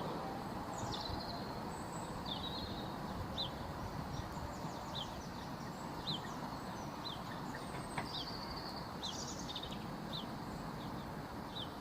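Class 465 Networker electric multiple unit pulling away and fading into the distance, leaving a steady background rumble. A bird chirps over it again and again, short high chirps about once a second.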